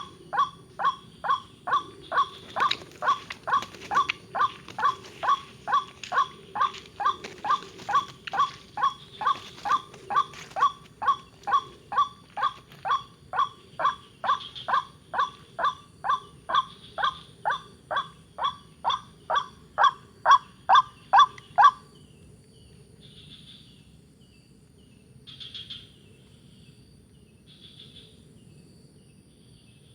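White-breasted waterhen calling: short, clipped notes repeated steadily about twice a second, which stop abruptly about two-thirds of the way through, leaving faint chirps and insect buzz.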